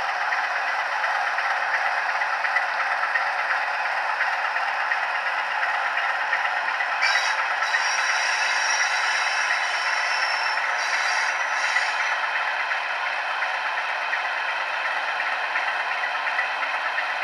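OO gauge model diesel locomotive running on the layout: a steady, thin rattling clatter with no bass. A higher whine comes in about seven seconds in and stops about twelve seconds in.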